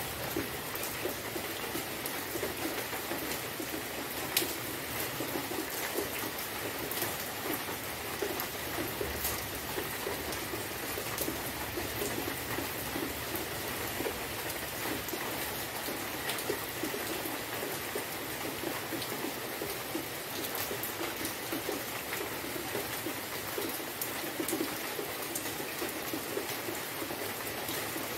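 Steady rainfall, an even hiss of rain with single drops ticking close by now and then.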